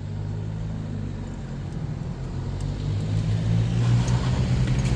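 A motor vehicle's engine hum, steady at first and growing louder over the last two seconds as it draws nearer.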